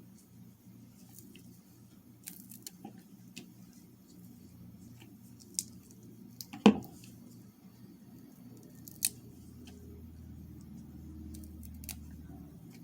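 Kitchen handling sounds: scattered light clicks and taps, with one louder knock about seven seconds in and a sharp click about two seconds later, over a low steady hum.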